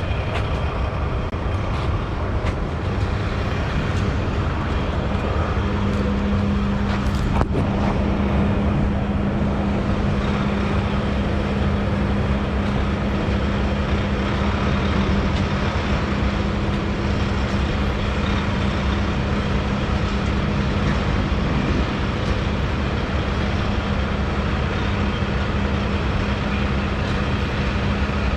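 Heavy truck driving on the highway, heard inside the cab: a steady drone of diesel engine and road noise, with a steady hum that comes in about six seconds in and a single click shortly after.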